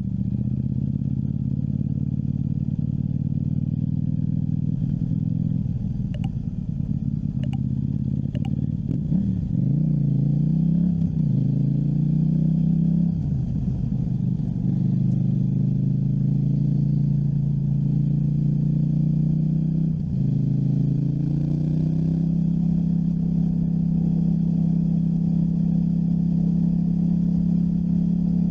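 KTM 790 Duke's parallel-twin engine running on the move, its pitch rising and falling several times in the first half as the throttle is worked, then holding steady. A few sharp clicks sound a little before the pitch changes.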